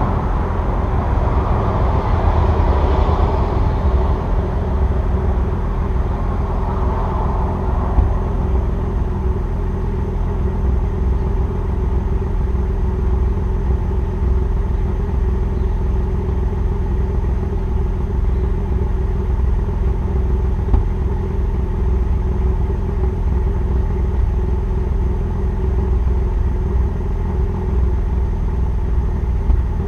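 2002 Nissan Maxima's 3.5-litre VQ35DE V6 idling steadily through its exhaust (equal-length headers, stock catalytic converter, resonator deleted, muffler), a low, even rumble while it warms up after a cold start. A broader rushing noise fades out over the first few seconds.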